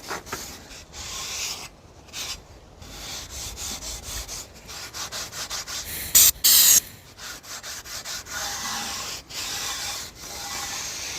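Scotch-Brite abrasive pad scrubbing the metal at the back of a 1956 Ford F500 truck in quick back-and-forth strokes. About six seconds in come two short, loud bursts of noise.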